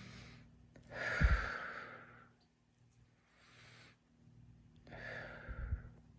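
A man breathing deeply while stretching: two long, slow exhalations about four seconds apart, with a fainter breath in between.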